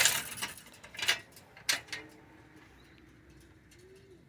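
A gate being shut: a loud clatter, then two shorter knocks. After that comes a faint, low, drawn-out croon from a chicken that bends in pitch at its end.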